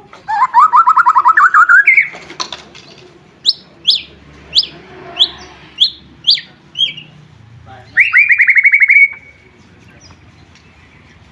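White-rumped shama singing. A fast trill rises in pitch, then comes a series of about eight short, high, downward-sweeping whistled notes about half a second apart, and near the end another fast trill.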